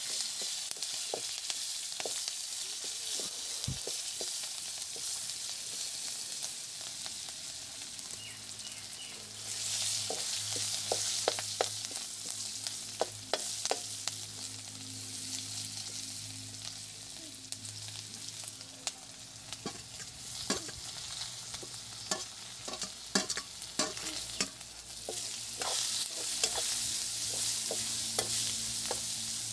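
Sliced onions sizzling as they fry in oil in a metal kadhai, with a spatula scraping and tapping against the pan again and again as they are stirred. The sizzle swells about ten seconds in and again near the end, and a faint low hum comes in about eight seconds in.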